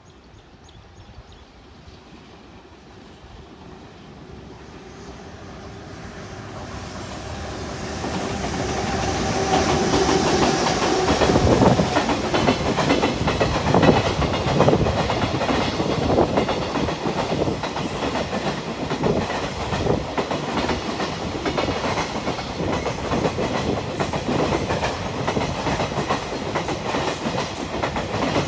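Freight train approaching and passing, growing louder over the first ten seconds with a steady humming tone, then a continuous rumble with rapid clickety-clack of wheels over rail joints.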